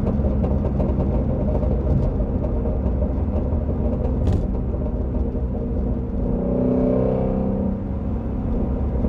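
Ford Shelby GT350R's 5.2-litre flat-plane-crank V8 running steadily under way, a continuous low rumble, with a single sharp crack about four seconds in.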